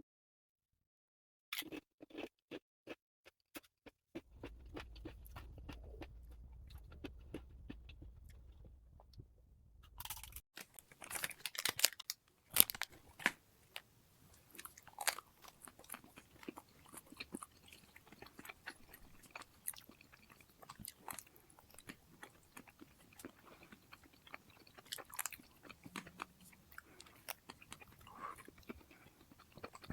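Close-miked eating sounds: someone biting and chewing food with crisp, irregular crunches and wet mouth clicks, after a short silence at the start.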